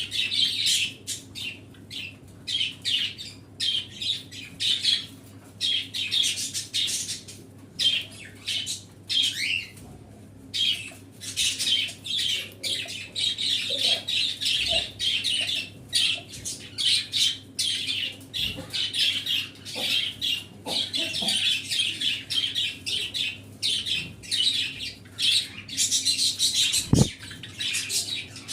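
A flock of small caged pet birds chirping and chattering continuously, with many overlapping high calls and squawks. A brief low sound stands out about a second and a half before the end.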